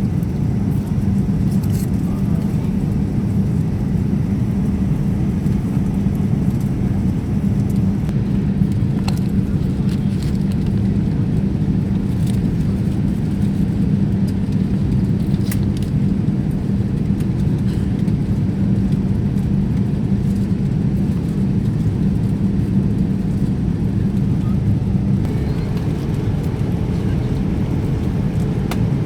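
Airliner cabin noise: a steady low rumble of engines and rushing air with a constant hum, its pitch shifting slightly near the end. A few faint clicks are heard along the way.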